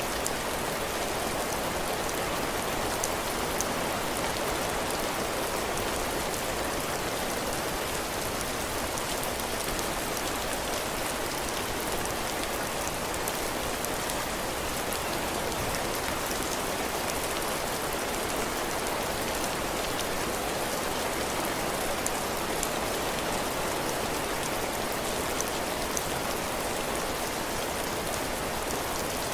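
Heavy rain falling steadily on a cabin porch roof and the ground, an even hiss with scattered drops ticking through it.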